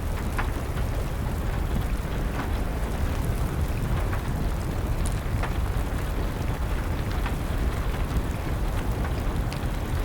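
Steady rain with a deep, even rumble underneath, and sharp crackles from a wood fire popping about once a second.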